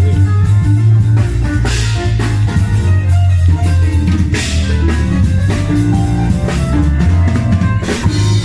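Band playing with a drum kit, a heavy bass line and guitar; cymbal crashes about two seconds in and again just past four seconds.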